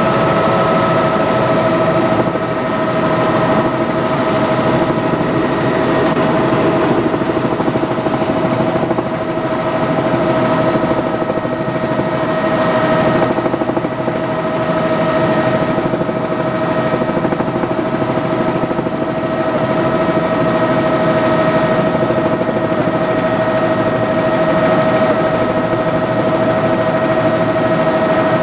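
Helicopter in steady flight: a fast, even chopping with a steady whine over it, unchanging throughout.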